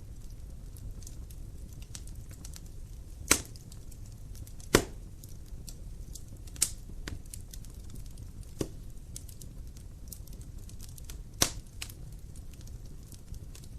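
Wood fire crackling in a fireplace: a steady low rush of burning with many faint ticks and five sharp, loud pops spread through it.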